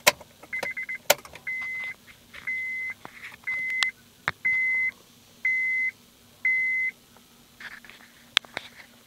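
Honda Accord's electronic warning chime: a quick stuttering run of rapid beeps, then six steady high beeps about one a second, each near half a second long. A few sharp clicks fall between the beeps.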